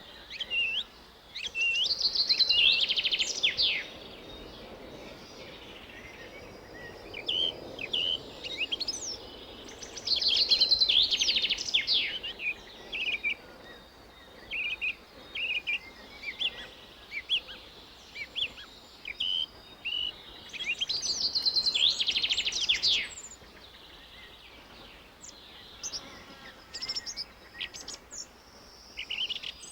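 A songbird singing. Three loud, fast trilled phrases come about ten seconds apart, with short high chirps in between.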